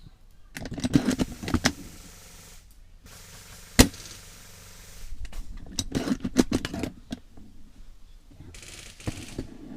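Airsoft guns firing: two runs of rapid clicking shots and impacts, with a single sharp crack about four seconds in and a short hiss near the end.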